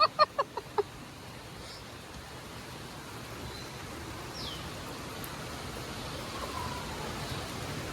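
Steady hiss of outdoor background noise, like distant running water or rain, slowly growing a little louder. A voice cuts off in the first second, and a single short falling chirp comes about four and a half seconds in.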